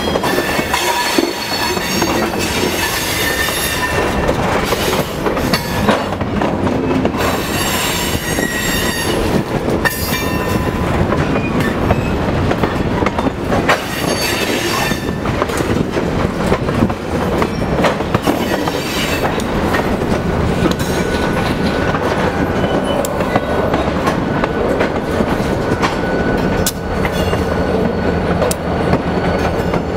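Freight cars of a slurry train rolling slowly past close by, their steel wheels squealing against the rail and clicking over the rail joints. In the last seconds the diesel locomotives come by, adding the steady drone of their engines.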